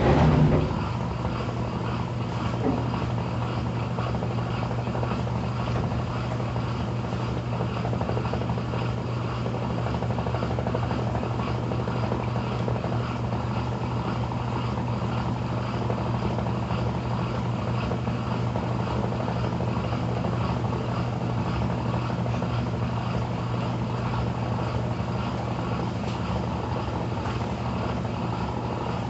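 Brastemp Intelligent 7 kg top-loading washing machine running with a steady low whirring hum, its motor spinning the drum, as in the final spin of the wash cycle.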